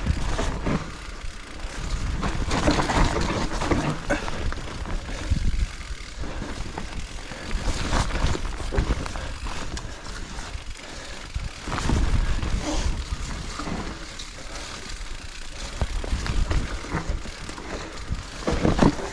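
Specialized Levo electric mountain bike riding over rough, technical trail: tyres on rocks and roots with the bike clattering over bumps, a rough continuous rumble broken by several sharper knocks.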